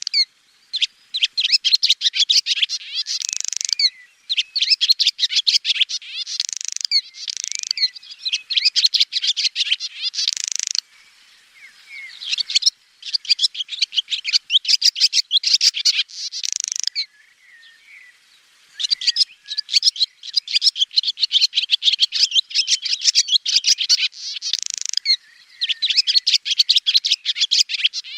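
Swallow singing: phrases a few seconds long of rapid, high twittering notes with short pauses between. Several phrases end in a brighter, rising flourish.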